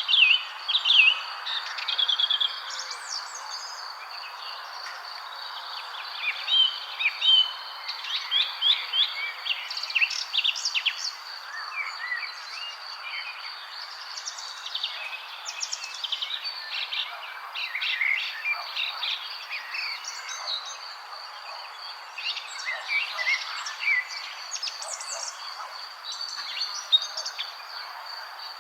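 Many birds chirping and calling, overlapping short notes and quick sweeps, over a steady high whine and a constant soft hiss.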